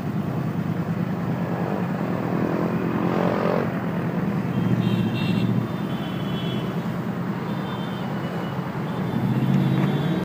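Yamaha YZF-R1 inline-four engine and other motorcycle engines running at low revs as the bikes pull away slowly, with a short rise in revs about three seconds in.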